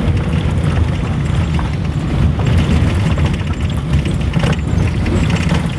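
A road vehicle on the move: a steady low rumble of engine and road noise, with a few brief knocks about four and a half seconds in.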